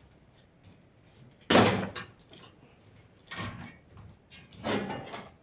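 Three clunks of metal car parts being handled and set down. The first, about a second and a half in, is the loudest and most sudden; two lighter ones follow near the end.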